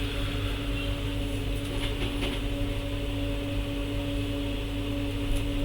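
Steady electric motor drone with a constant hum from repair-bench equipment, with a few faint ticks about two seconds in.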